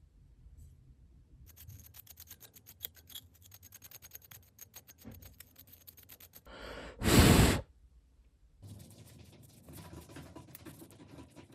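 Small sharp clicks in quick succession for about five seconds, then a short, loud burst of rushing noise, then softer scraping and rustling, from hands working on a laptop's plastic parts.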